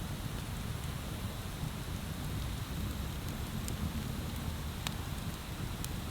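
Wood bonfire crackling, with a few sharp pops over a steady rushing noise.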